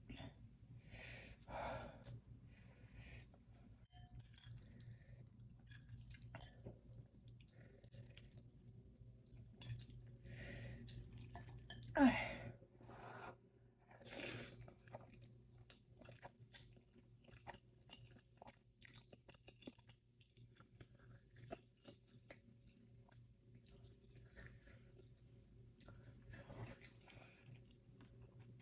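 Close-up mouth sounds of a person eating Buldak spicy ramen noodles: soft chewing with scattered short wet noises. About twelve seconds in there is one louder vocal sound whose pitch drops sharply, like a quick breath against the heat of the food.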